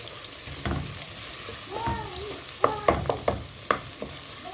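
Pork ribs frying in a pan with a steady sizzle, stirred with a utensil that knocks sharply against the pan several times past the middle. A few short wavering pitched sounds come in around the middle.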